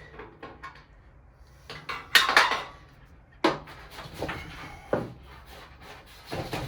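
Sheet-metal parts of a gas patio heater clanking and rattling as they are handled and screwed together: a loud clattering burst about two seconds in, then several separate metallic knocks.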